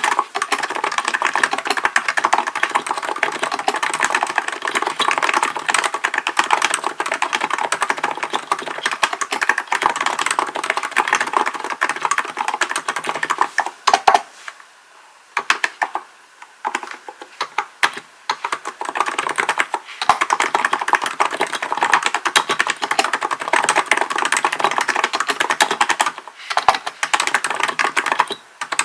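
Rapid, continuous typing on a Hansung GK898B electro-capacitive (Topre-style) keyboard, a steady patter of keystrokes. About halfway through there is one louder key strike followed by a pause of a second or two before the typing resumes.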